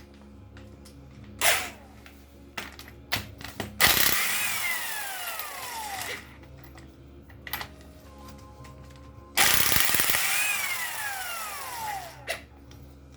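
Ingersoll Rand impact wrench run twice for about two seconds each, taking connecting-rod nuts off, its whine falling in pitch during each run. Short metallic clinks from sockets and loose nuts come between the runs.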